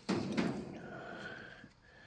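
A brief clunk and scrape of the carburetor body being handled on the bench, lasting about half a second, followed by fainter noise.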